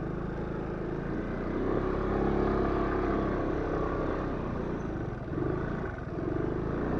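Aprilia scooter's engine running under way on a bumpy dirt track. It swells about two seconds in and dips briefly a little past halfway.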